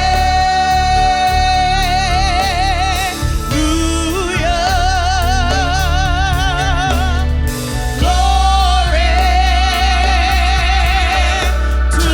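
Gospel singing with a band: a singer holds three long notes with wide vibrato, each ending with a short break, over a steady deep bass.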